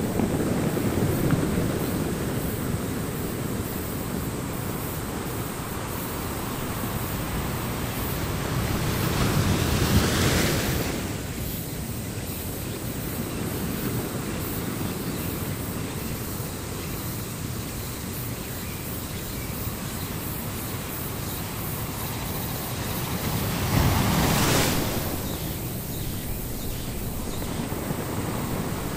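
Ocean surf with wind on the microphone: a steady rushing noise that swells louder twice, about ten seconds in and again later on.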